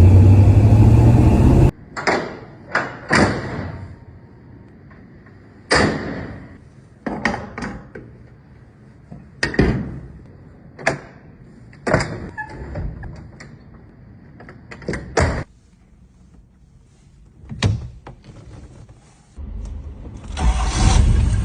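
A dozen or so sharp knocks and clunks at irregular intervals, with quiet between them. Near the end a low rumble comes in and grows louder.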